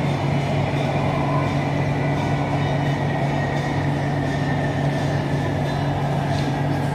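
BTS Skytrain electric train running along the elevated track, heard from inside the carriage: a steady rumble and hum with a thin motor whine that falls slightly in pitch.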